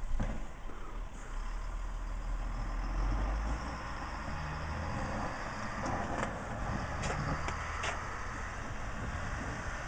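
Snow plow truck's engine running with a steady low rumble, heaviest in the first three or four seconds, with a sharp knock at the start and a few short knocks about six to eight seconds in.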